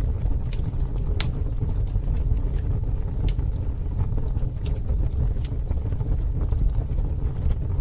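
Campfire burning: a steady deep rumble with sharp wood crackles and pops about once a second, the loudest a little over a second in.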